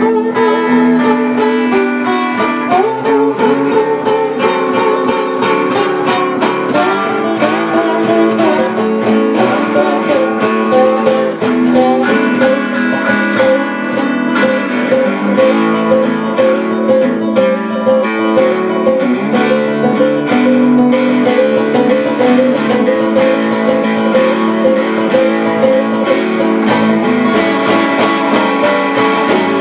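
Guitar playing an instrumental blues break, picked single notes over a strummed rhythm, with no singing.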